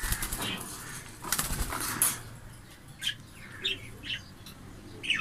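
Small aviary parrots, budgies and cockatiels, flapping their wings in two flurries in the first two seconds, then giving four short, sharp chirps.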